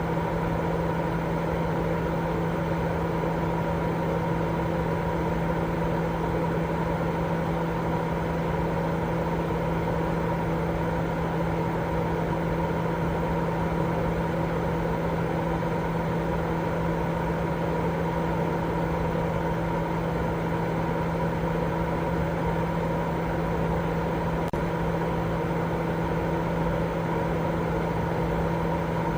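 Continuous white-noise sleep sound: a steady, unchanging rushing noise, deeper than a bright hiss, with a constant low hum running through it.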